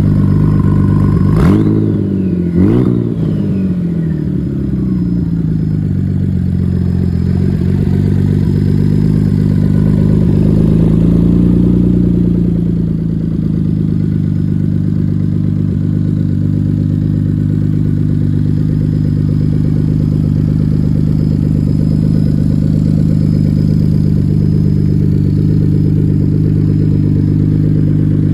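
Ford 3.5L EcoBoost twin-turbo V6 running: two quick throttle blips about a second apart near the start, each dropping straight back, a slower rise and fall in revs about ten to twelve seconds in, then a steady idle.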